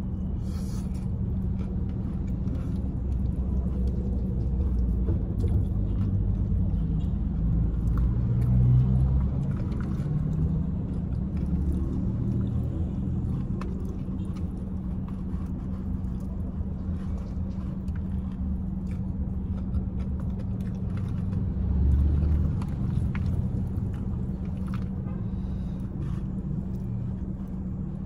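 Steady low rumble and hum of a car idling, heard inside the cabin, swelling briefly twice. Faint eating sounds, chewing and handling of a paper food box, come through over it.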